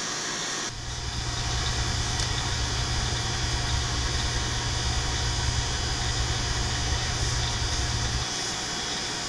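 Refrigerant vacuum pump running steadily while it evacuates the air-conditioner lines. A low rumble comes in under it about a second in and stops near the end.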